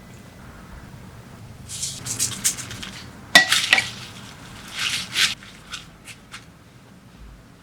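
Kitchen prep handling sounds: rustling and scraping in a bowl, a sharp clink of a utensil against a dish about three and a half seconds in, and a few light clicks after.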